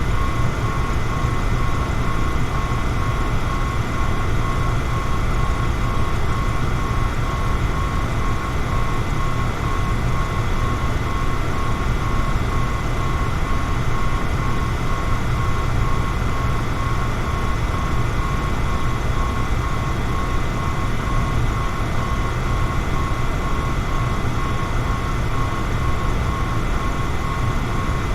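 Electric fan running steadily: an even rush of air over a low motor hum, with a thin steady whine above it.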